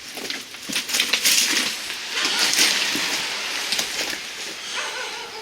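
Footsteps crunching on loose stones and gravel, an irregular run of gritty scrapes and sharp clicks.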